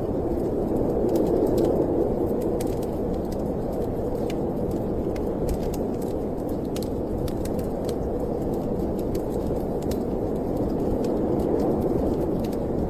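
Steady howling snowstorm wind, swelling a little near the end, with the scattered sharp snaps and crackles of a wood fire burning in a fireplace.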